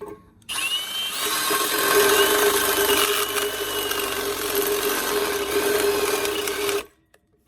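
Electric drill boring into metal, running for about six seconds and stopping suddenly, with a high squeal from the bit. The drill is running faster than the bit should, which the driller calls going way too fast.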